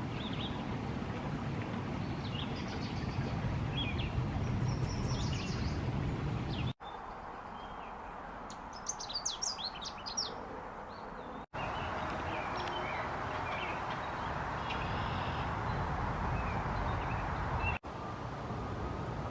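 Songbirds singing and chirping over a steady background hiss, in short stretches broken by abrupt cuts. In the quieter middle stretch one bird gives a quick run of high notes.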